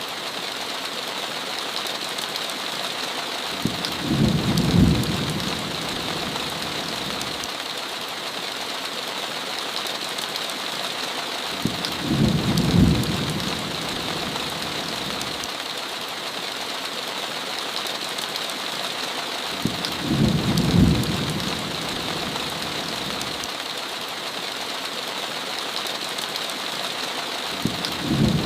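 Steady heavy rain falling, with short low rolls of thunder about every eight seconds: three rolls, and a fourth beginning right at the end.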